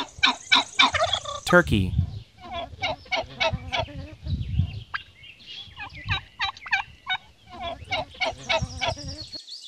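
Turkey gobbling: several bouts of rapid, rattling calls, one after another.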